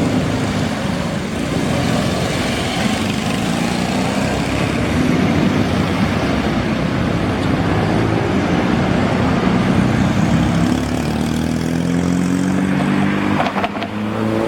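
Classic car engines running close by. One engine's note rises in pitch over the last few seconds as it accelerates, broken briefly by a short dip near the end.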